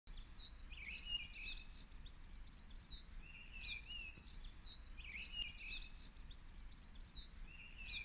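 A songbird singing repeated phrases of quick, high twittering notes, with a new phrase starting about every two seconds, over a faint low background rumble.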